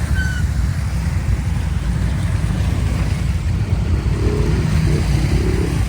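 Quad bike engine running, a steady low rumble with no pauses.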